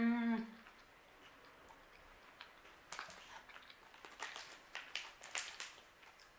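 A short hummed "mmm" at the start, then soft, irregular chewing and mouth clicks from about three seconds in as a piece of chocolate protein bar is eaten.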